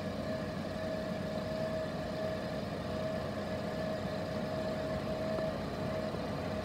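2013 Chevrolet Tornado's four-cylinder engine idling steadily, with a thin steady whine above the idle.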